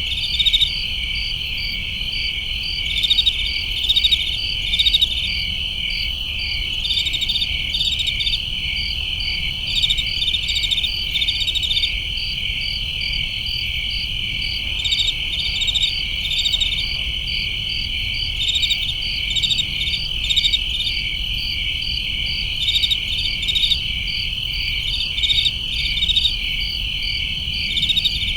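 Crickets chirping in a night chorus: a steady high-pitched trill, with louder runs of rapid chirps coming and going every few seconds.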